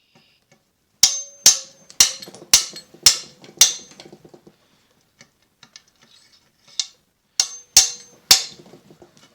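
Hammer blows on steel, driving a part out of an old engine: a run of six ringing strikes about two a second, a pause, then four more.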